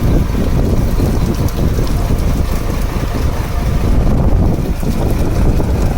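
Wind buffeting the microphone on a fishing boat at sea, a loud irregular rumble that swells suddenly at the start, with the boat's engine running steadily underneath.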